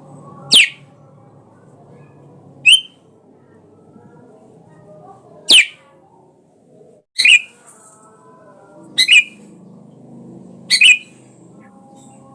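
Sooty-headed bulbul (kutilang) giving six short, sharp calls, one about every two seconds, each a quick downward sweep in pitch. A faint low background noise runs underneath.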